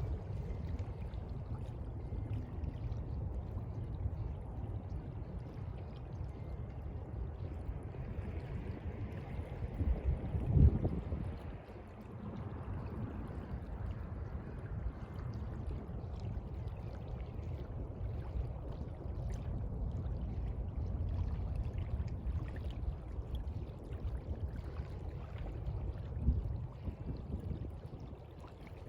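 Sea water washing and sloshing, a steady noise with a louder surge about ten seconds in and a smaller one near the end.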